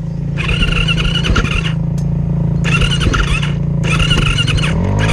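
Yamaha dirt bike's electric starter squealing in about three separate bursts of roughly a second each as the start button is pressed. The starter is misbehaving and the engine doesn't catch. A steady engine hum runs underneath.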